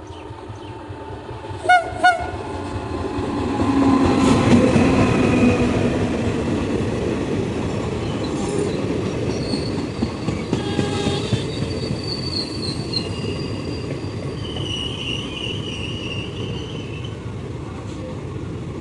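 A train horn gives two short blasts, then a train passes at speed. Its rumble of wheels on rails builds to a peak a few seconds in and stays loud, with clatter and high wheel squeals as the carriages go by.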